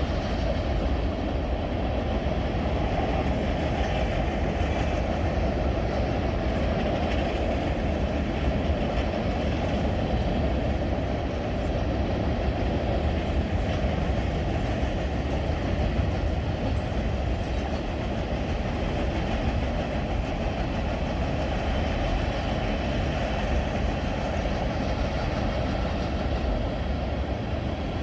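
Freight train cars rolling past on the rails: a steady, continuous rumble of wheels with some clatter over the rail joints.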